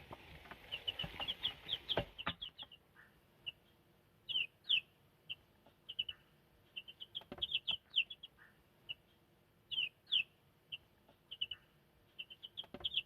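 Black silkie chicks peeping: many short, high, slightly falling peeps, some single and some in quick runs. Rustling with a few knocks in the first couple of seconds.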